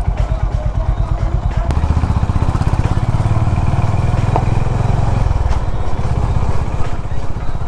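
Honda CB350 H'ness single-cylinder motorcycle engine running under way, a fast steady thumping that grows louder about two seconds in.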